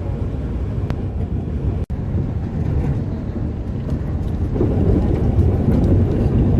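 Low, steady rumble of the Alishan Forest Railway train running, breaking off for an instant about two seconds in and growing louder in the second half.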